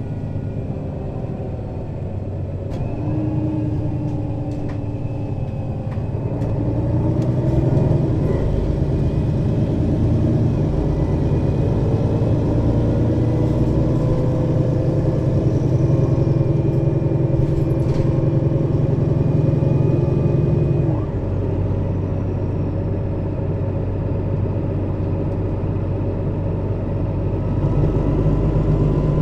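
Mercedes-Benz Citaro city bus diesel engine pulling under load, its note slowly rising and growing louder, then dropping abruptly about two-thirds of the way through and running on at a lower, steadier pitch.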